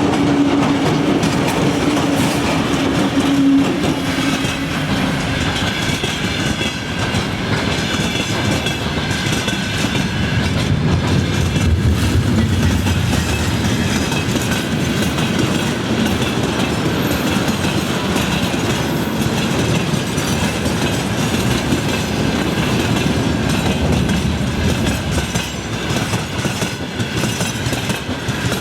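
Freight train hauled by a VL11 electric locomotive rolling past at close range: a continuous heavy rumble with wheels clacking over rail joints. A steady hum in the first few seconds fades out.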